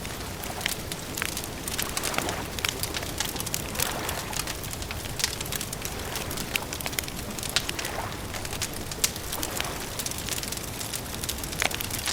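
Wood campfire crackling, with frequent irregular sharp snaps and pops over a steady low hiss and rumble.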